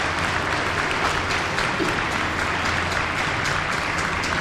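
Audience applauding, the clapping growing more separate and distinct near the end.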